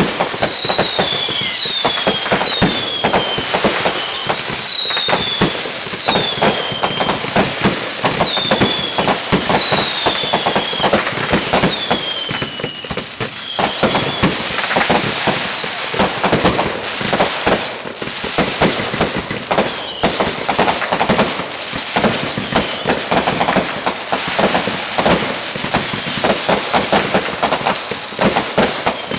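Fireworks going off without pause: a dense run of rapid pops and crackling, with many short whistles falling in pitch overlapping each other every second or so.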